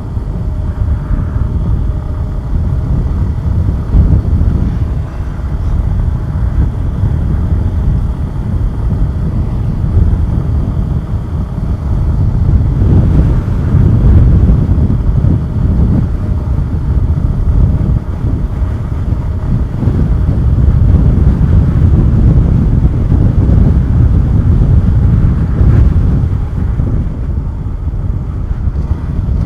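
Suzuki Gixxer 150SF single-cylinder motorcycle riding along, its engine running under heavy wind buffeting on the camera microphone, which rises and falls in loudness.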